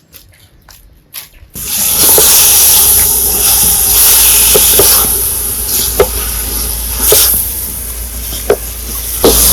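Food sizzling hard in a hot pan, starting suddenly about a second and a half in, with a sharp pop every second or so.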